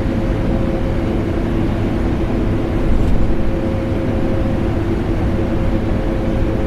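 Vacuum cleaner running steadily, blended with air conditioner noise: a constant rushing hum with a steady mid-pitched whine, swelling slightly about three seconds in.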